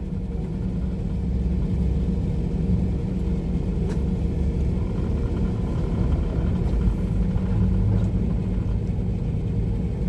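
Steady low rumble of a semi truck's engine and road noise, heard from inside the cab while driving at speed.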